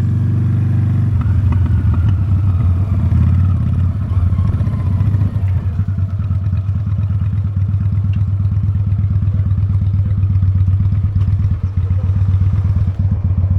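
Honda Steed V-twin motorcycle engine running while riding, a steady low drone; from about five seconds in its exhaust beat turns into a distinct, even pulsing.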